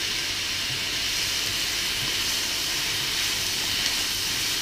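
Beef and vegetable stir-fry sizzling steadily in a hot wok as it is stirred with a spatula.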